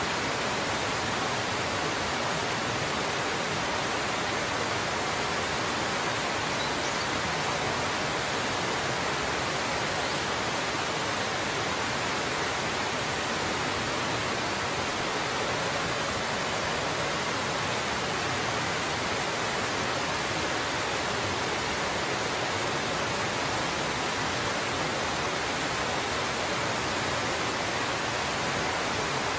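Water pouring down a waterfall, a steady unbroken rush that does not change.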